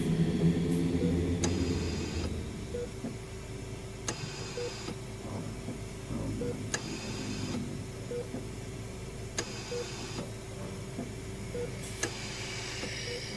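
Layered horror hospital sound-effect ambiance. A short electronic beep repeats about every 1.7 seconds over a steady hum, while bursts of mechanical whirring come and go with scattered sharp clicks. A low rumble fades out about two seconds in.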